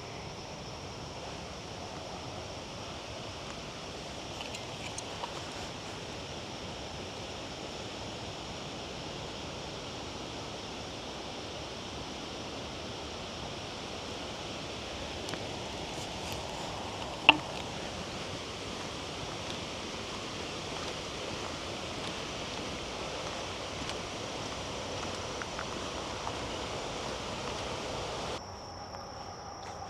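Outdoor summer ambience: a steady rush of wind and rustling leaves under a thin, steady high drone of insects, with one sharp click about two-thirds of the way through. The rush drops away shortly before the end, leaving the insect drone.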